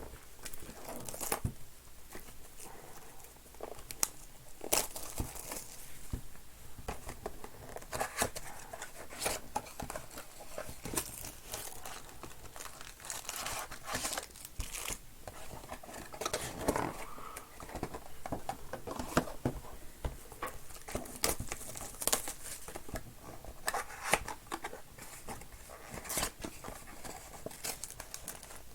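Plastic wrapping of a baseball card box and its card packs being torn open and crumpled, with irregular crackles and rips.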